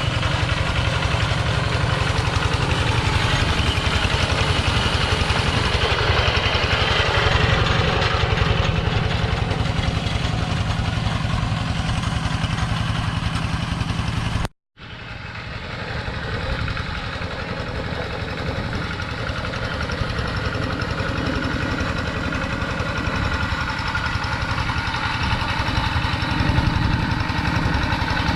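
Two-wheel walk-behind tractor's engine running steadily with a rapid, even pulsing beat. The sound cuts out completely for a split second about halfway through, then resumes.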